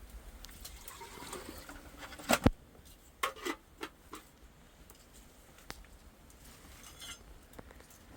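A few sharp clinks and knocks of hard objects, loudest about two and a half seconds in, then fainter scattered ticks.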